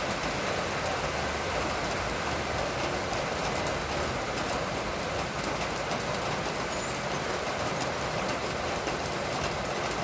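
Steady rain falling, an even hiss with scattered sharp ticks of drops striking a surface.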